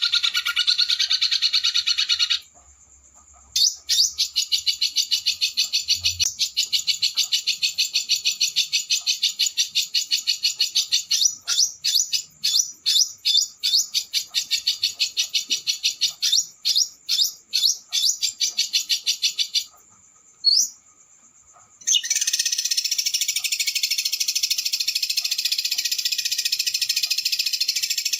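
Recorded song of a small songbird, high-pitched and fast: a dense rapid trill, then separate sharp notes about two a second, a short break with one rising whistle, and dense trilling again.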